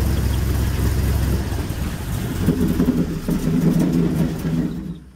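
Airboat engine and propeller running through a Franklin 2-to-1 belt box. The drone shifts to a lower, steadier note about two seconds in, then cuts off near the end as the engine is shut down.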